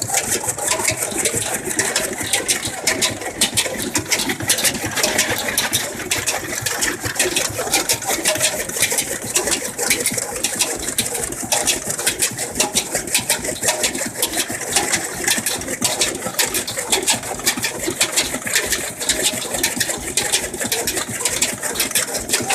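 A desi engine, a locally made stationary engine, running steadily with a fast, even knocking rhythm.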